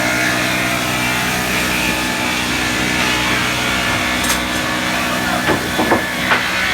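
Sawmill machinery running with a steady, many-toned hum, and a few sharp knocks near the end.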